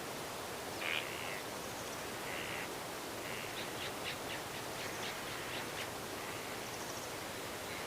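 Wild birds calling over a steady hiss of wind through the trees. A few short calls come in the first three seconds, then a quick run of sharp chirps, and faint high notes near the end.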